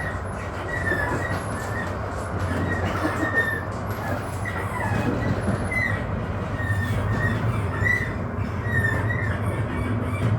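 Astra Imperio Metropolitan tram running, heard on board: a steady low hum and rumble with many short, high wheel squeals on the rails.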